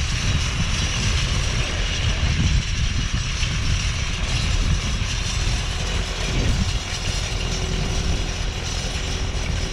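Renault 651 tractor's engine running steadily under load as it pulls a chain harrow, a low rumble with a rough mechanical clatter over it.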